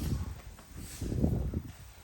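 Rustling of gi cloth and bodies shifting on a grappling mat, with a burst of dull thumps and scuffing about halfway through.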